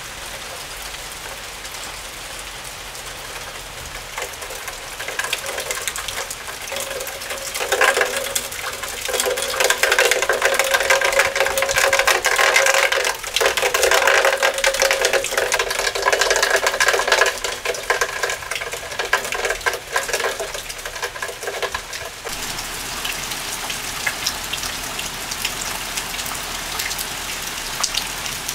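Heavy rain falling steadily. From about five seconds in, a louder noise with a steady pitched hum rises over the rain, then cuts off abruptly some 22 seconds in.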